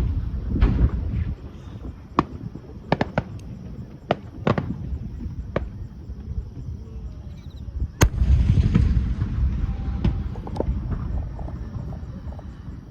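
Aerial fireworks display: shells bursting with deep rolling booms, and a string of sharp single cracks between them. The loudest crack comes about eight seconds in and is followed by another long rumbling boom that fades toward the end.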